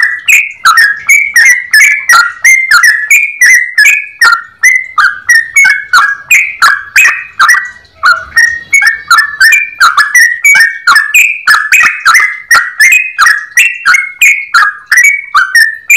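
Yellow-vented bulbul (trucukan) singing in a long unbroken run of short bubbly chirps, about three to four a second, with only a brief dip about eight seconds in.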